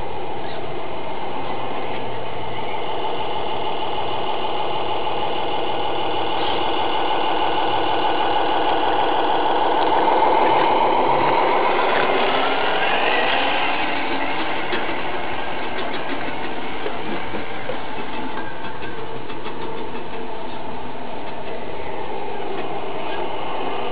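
Tamiya Scania radio-controlled model truck running: a steady mechanical drivetrain sound, its pitch rising to a peak about halfway through and then settling back down.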